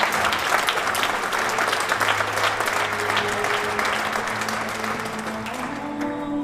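Audience applauding, the clapping dying away near the end, with music playing underneath.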